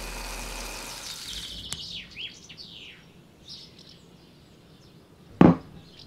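Oil sizzling under a patty frying in a pan for the first second and a half, then a few short bird chirps, and one loud thump near the end.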